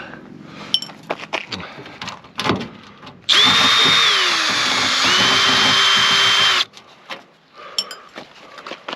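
Power drill with a screwdriver bit spinning out a screw from a microwave oven's sheet-metal casing: one run of a few seconds whose whine dips in pitch partway through as the screw loads it, then holds steady. Light clicks and clatter of metal parts before and after.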